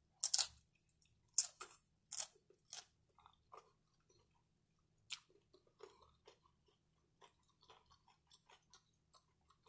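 A person biting and chewing crunchy tortilla chips from cheesy shrimp nachos, close to the microphone: about five sharp crunches in the first three seconds, one more about five seconds in, then softer wet chewing.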